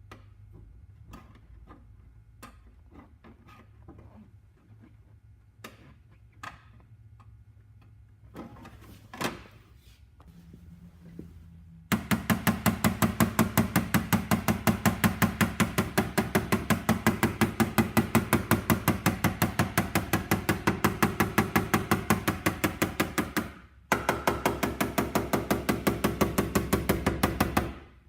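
Light hammer taps on a steel car door panel: a few scattered taps, then about twelve seconds in a fast, even run of about six taps a second, pausing briefly and starting again near the end. It is paintless dent repair tapping, knocking down and blending the dent in the door skin.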